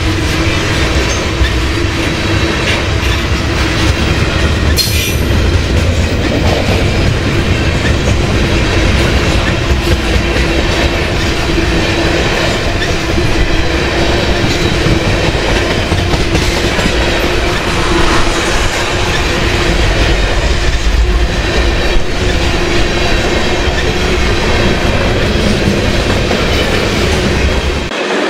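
Freight cars of a long, heavy freight train, mostly tank cars, rolling past close by: steel wheels on rail make a loud, steady rumble with a constant tone running through it. The low rumble drops off abruptly just before the end.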